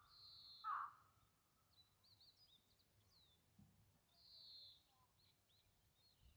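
Wild birds calling, faint: two short lower calls near the start, a higher drawn-out buzzy note twice, and small quick chirps in between.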